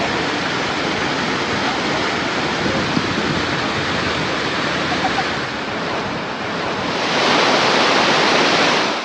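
Steady rushing of a waterfall, falling water as a continuous hiss-like roar, growing louder and brighter about seven seconds in.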